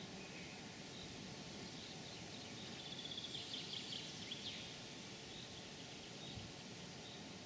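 A songbird gives a short, quick trill of high notes about three seconds in, over a steady outdoor background hiss.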